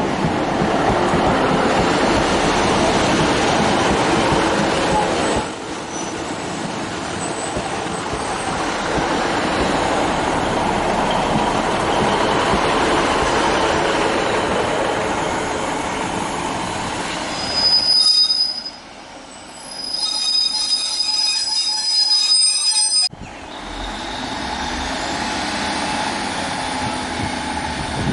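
Northern Class 150 Sprinter diesel multiple units running close past on the track, with several abrupt cuts between passes. For a few seconds in the second half there is a high-pitched metallic wheel squeal.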